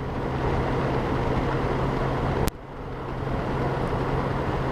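Wind rushing over a helmet-mounted camera's microphone on a Honda Gold Wing motorcycle at highway speed, over the bike's steady engine hum. About two and a half seconds in the sound drops suddenly and then builds back up.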